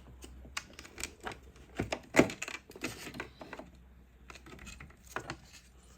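Irregular sharp clicks and snaps of wire cutters cutting a car door speaker's cable and the speaker and tools being handled, the loudest snap about two seconds in.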